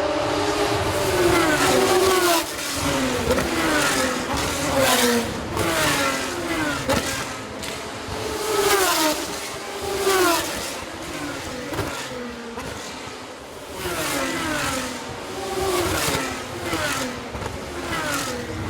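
Race cars passing one after another at speed, each engine's pitch falling as it goes by, in a steady stream with loud peaks every second or two.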